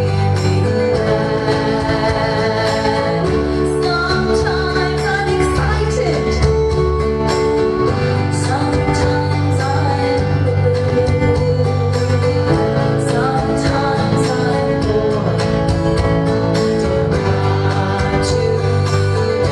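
A song with singing over a steady instrumental accompaniment with guitar-like plucked strings.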